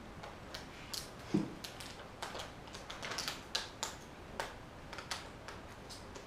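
A run of irregular light clicks and taps, a few a second, with one duller low thump about a second and a half in.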